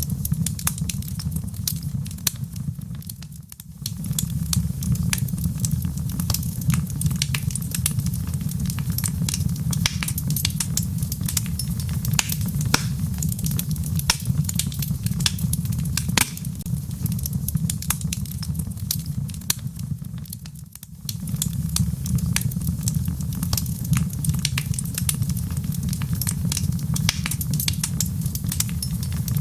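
Wood fire burning in a fireplace: logs crackling with many sharp irregular pops over a steady low rumble of the flames. The rumble dips briefly twice, about three seconds in and again near twenty-one seconds.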